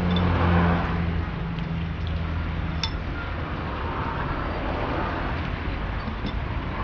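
Low steady hum of a nearby engine that fades away after about three seconds, over general background noise, with a single clink of tableware near the middle.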